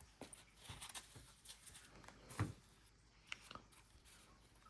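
Football trading cards being handled and slid one behind another: faint scattered soft clicks and brief rustles of card stock, with one louder tap about halfway through.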